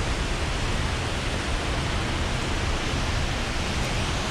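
Steady roar of a tall waterfall in high flow, a dense even rush of falling water with no breaks.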